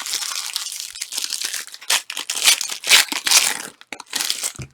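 Trading card pack wrappers being torn open and crinkled: an irregular crackly rustle, with several louder crinkles a little past the middle.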